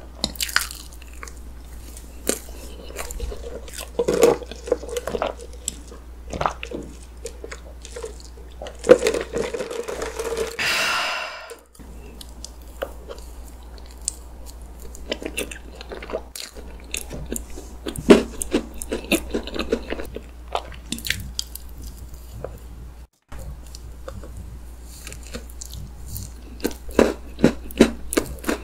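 Close-up mouth sounds of eating chocolate layer cake with whipped cream: soft chewing and wet smacking with many small clicks, and now and then a crunch of crisp cookie-like bits in the cake.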